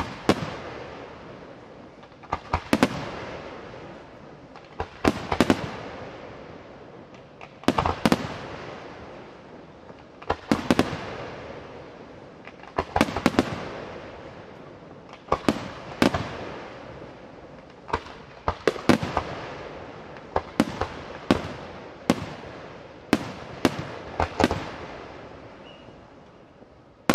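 Aerial firework shells bursting in a display, sharp bangs coming in quick pairs and triplets about every two and a half seconds, each trailing off over a second or two.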